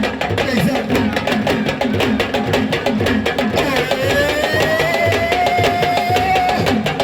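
Fast, dense drumming with many rapid strokes. About halfway through, a long held note joins over the drums, slowly rising in pitch.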